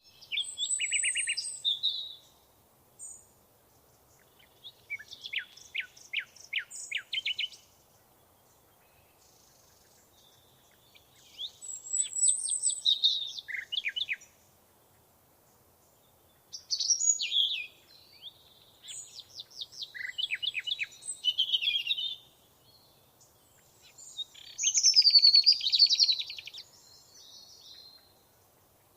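A songbird singing: varied high phrases of whistles and fast trills, in about five bursts a few seconds long with short pauses between.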